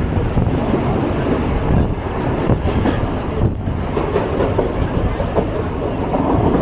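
Moving train heard from on board: a steady rumble of wheels running on the rails, with a few sharp clicks from the track.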